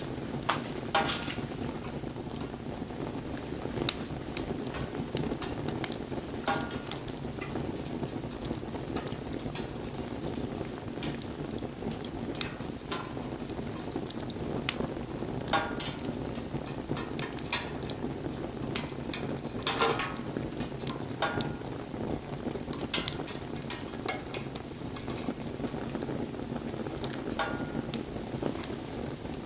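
Wood fire burning: a steady low noise of the flames with frequent sharp crackles and pops from the burning wood.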